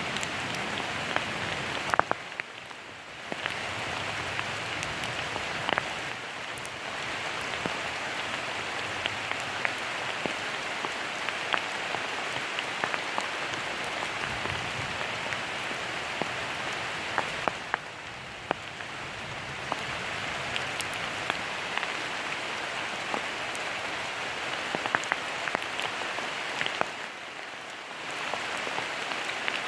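Steady rain falling, with scattered louder single drops striking close by. It drops briefly quieter three times, about two seconds in, in the middle and near the end.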